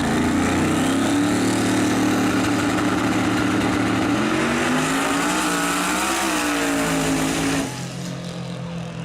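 Drag race car engine running hard down the track, its pitch climbing and wavering near the middle before dipping again. It cuts off abruptly about three-quarters through, leaving a quieter steady engine drone.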